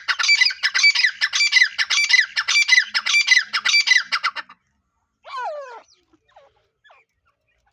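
Teetar (grey francolin) calling: a fast run of loud, harsh repeated notes that stops after about four and a half seconds, then after a pause one short call falling in pitch, followed by a few faint short notes.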